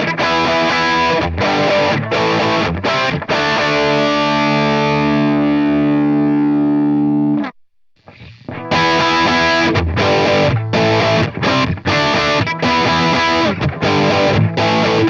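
Heavily distorted electric guitar through a Marshall JCM 800 amp simulation, playing an 80s-metal style riff. Short stabbed chords lead into one chord left ringing for about four seconds, which is cut off dead; after a short pause, fast chugging chords follow.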